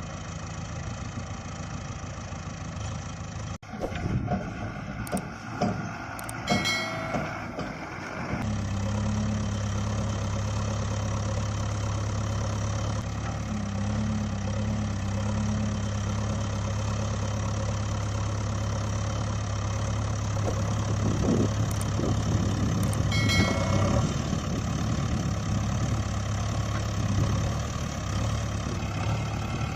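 An engine running steadily from about eight seconds in, with irregular knocks and clatter before that and a brief high-pitched tone twice.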